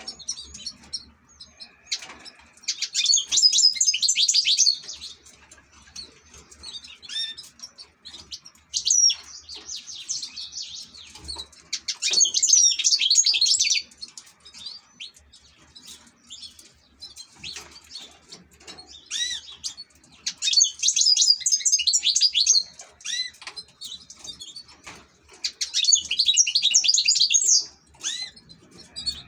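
European goldfinch singing: bursts of rapid, high twittering about two seconds long, repeated five or six times, with short chirps between the phrases.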